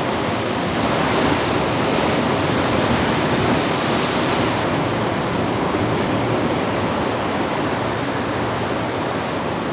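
Ocean waves breaking and washing up the shore in a steady rush, swelling slightly about midway.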